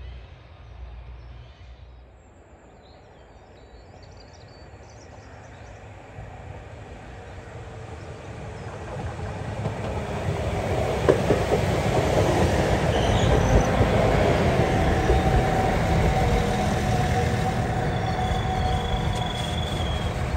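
A Northern Class 195 diesel multiple unit approaches and passes close by, its engine and wheel rumble growing louder over the first half and staying loud as the carriages go by. A thin wheel squeal from the curved track sounds through the later part.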